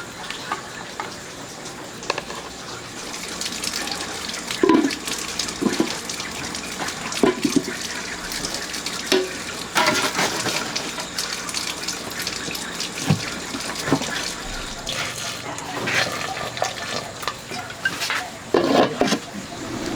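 Water running and splashing, as at a tap or sink, with frequent knocks and clatter throughout.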